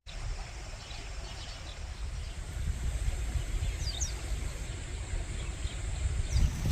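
Birds chirping a few times, short falling chirps, over a steady low rumble of outdoor ambience.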